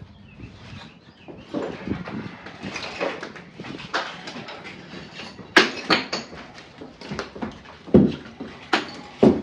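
Loose bricks being worked out of a fireplace front: a series of knocks, scrapes and clatters of brick on brick, the sharpest about five and a half seconds in and twice near the end.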